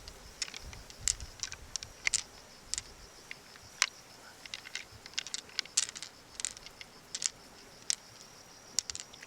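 Irregular sharp clicks and taps of small hard objects being handled, about two or three a second, over a faint steady high-pitched whine.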